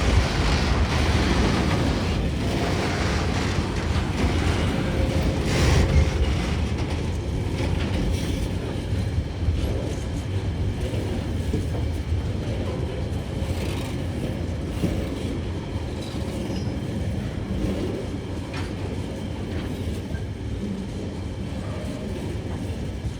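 A Tasrail freight train rolling past: a steady rumble of wagon wheels on the rails with occasional sharp clacks, slowly growing fainter.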